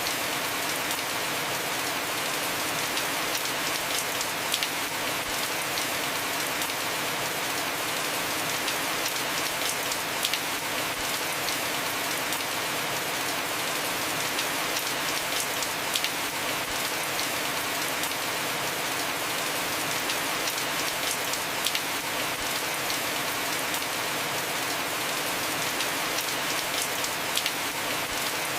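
Heavy rain falling steadily on a roof, a dense even hiss with scattered sharper drop ticks.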